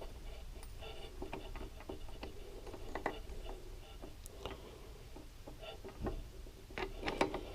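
Scattered light metallic clicks and taps from a gear and other engine parts being handled and fitted onto a splined shaft, with a few sharper clicks about three seconds in and near the end.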